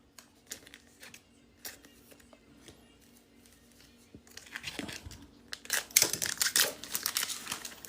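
Pokémon booster pack and trading cards being handled: rapid small clicks, crinkling and tearing from the foil wrapper and the cards. Mostly faint ticks at first, getting busier and louder from about four seconds in.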